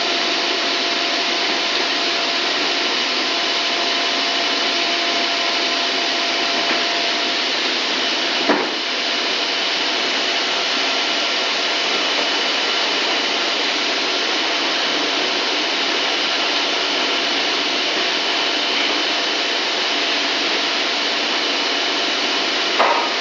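Extruder machine running steadily: a constant whirring noise with a few steady whining tones in it. A single knock about eight seconds in, and sharp repeated knocks begin right at the end.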